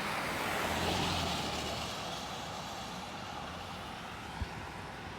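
Fire truck driving past, its engine and tyre noise swelling to a peak about a second in and then slowly fading away. A single short knock comes near the end.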